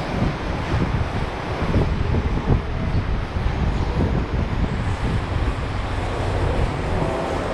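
Wind buffeting the camera microphone in uneven gusts, a heavy low rumble.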